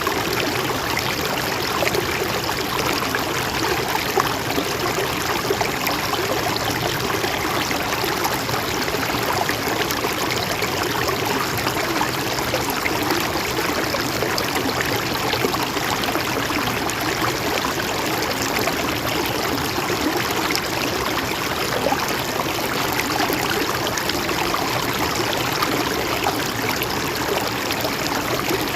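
Mountain stream running steadily over rocks, a continuous rush and trickle of water.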